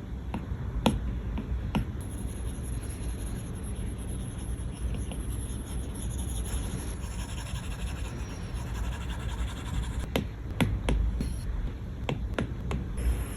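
Apple Pencil tip tapping and stroking on an iPad's glass screen: a scatter of sharp taps, a few at the start and a cluster near the end, over a low steady rumble.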